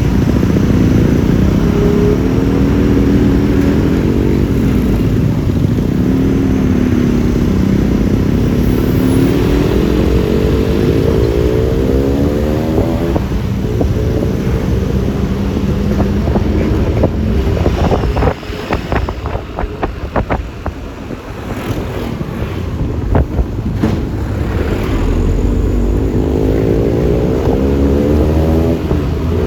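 Yamaha Lexi LX 155 scooter's single-cylinder engine running on the road, its pitch rising and falling as it speeds up and eases off, with wind on the microphone. About eighteen seconds in the engine drops back and goes quieter for a few seconds, then pulls up in pitch again near the end.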